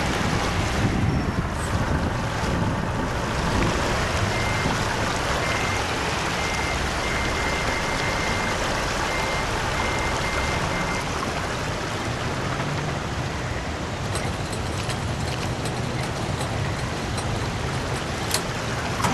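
Truck running with a steady rumble and rush, and a run of short, evenly spaced high-pitched beeps starting about four seconds in and lasting about six seconds.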